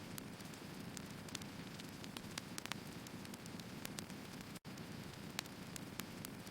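Firewood burning, crackling: irregular sharp pops and snaps over a steady low rush of the fire. The sound drops out for an instant a little past halfway.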